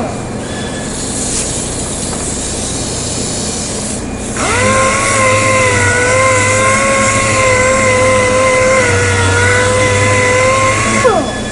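Dual-action (DA) sander on a plastic bumper repair. It winds down at the start, and a few seconds of rubbing follow. About four seconds in it spins up with a rising whine, runs steadily while sanding, and winds down again near the end.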